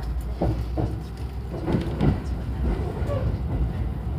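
Running noise of an electric train heard from inside the passenger car as it moves past a station platform: a steady low rumble with a few brief louder knocks.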